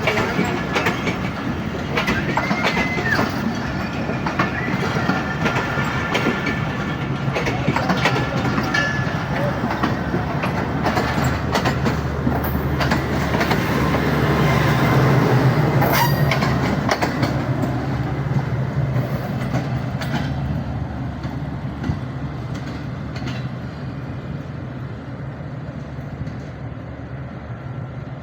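Millat Express passenger train moving on the tracks: wheels clicking over rail joints, with brief thin wheel squeals early on. The noise builds to its loudest about halfway through, then fades gradually.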